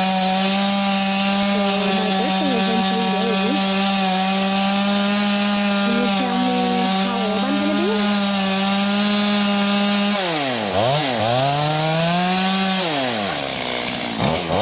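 Two-stroke chainsaw running at a steady pitch. About ten seconds in, its pitch dips and rises several times, then the level eases off near the end.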